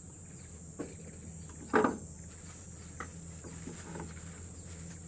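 Steady high-pitched insect drone, with a few short knocks and rustles on top, the loudest about two seconds in.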